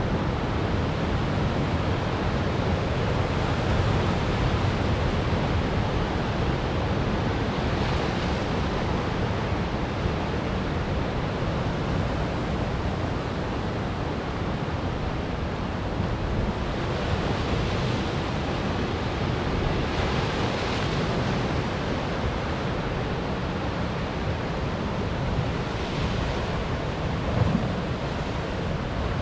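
Ocean surf breaking on rocks: a steady rushing wash with several swells of hiss as individual waves break, and a low rumble underneath.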